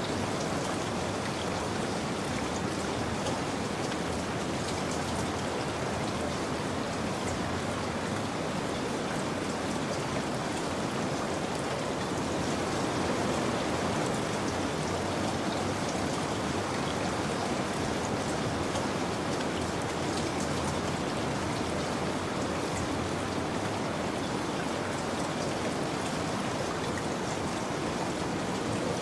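Steady rain falling, an even hiss with faint drop patter, unchanging throughout.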